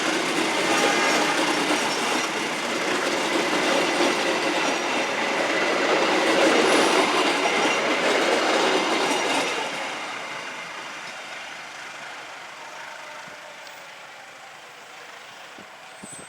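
A train passing close by, its wheels running on the rails, loud for about the first ten seconds and then fading away as it moves off.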